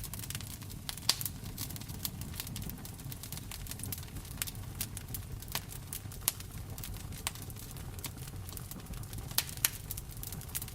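Wood fire in a fireplace crackling: irregular sharp pops and snaps, a louder one about a second in and two near the end, over a steady low rumble.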